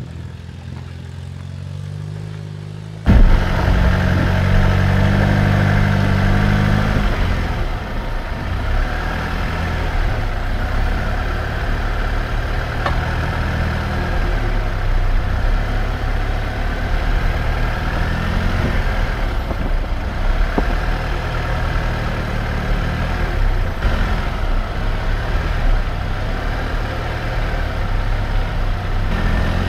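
Jeep Wrangler's engine running at low speed as it crawls over rock and dirt trail. About three seconds in the sound jumps suddenly much louder and closer, the engine's pitch rising and falling with the throttle over a steady rumble of tyres on the trail.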